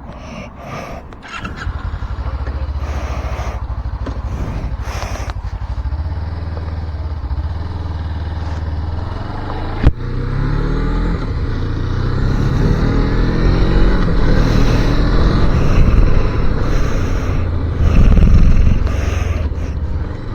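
250cc motorcycle engine running steadily, then after a sharp click about halfway it pulls away, its pitch rising and falling repeatedly as it revs through the gears.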